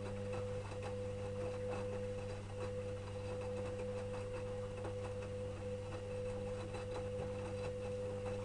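Electrolux EWS 1045 washing machine running mid-cycle: a steady whine over a low hum, with faint light clicks, and the whine stops right at the end.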